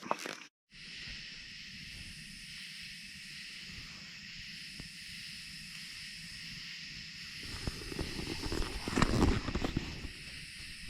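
A steady chorus of night insects, an even high hiss. Louder rustling and knocking sounds of something being handled come in near the end.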